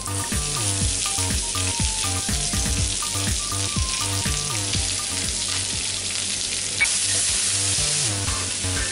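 Sliced onions and tomato wedges sizzling in hot oil with chopped garlic in a frying pan, with a spatula stirring them; the sizzle grows louder about seven seconds in. Background music plays underneath.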